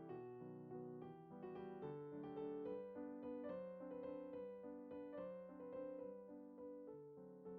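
Soft background piano music, a gentle melody of sustained notes.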